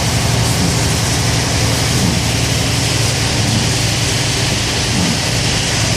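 Steady car-cabin noise while driving on a wet road in rain: a low engine hum under an even hiss.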